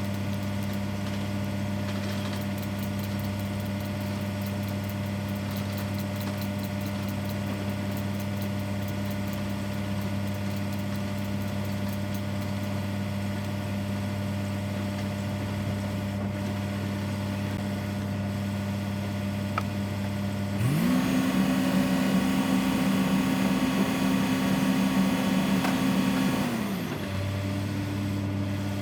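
Heavy diesel engine of a tracked excavator idling steadily, then revved up about two-thirds of the way through, held high for some six seconds, and dropped back to idle.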